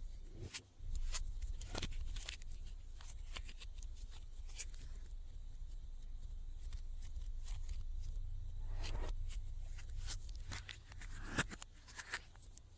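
Hands kneading and stretching slime: many small sticky clicks and crackling pops over a low rumble of handling, with a couple of louder squishes in the second half.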